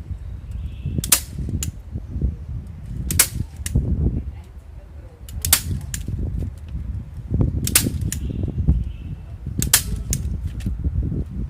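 Five sharp snaps about two seconds apart, some followed by a fainter click, over a low rumbling noise.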